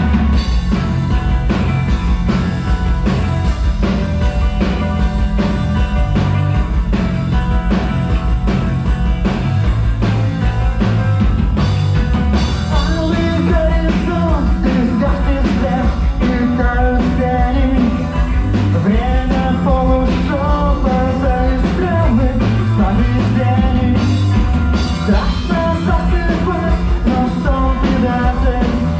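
Rock band playing live, with a steady beat and heavy bass. About halfway through, a melodic line that bends up and down in pitch comes in over the band.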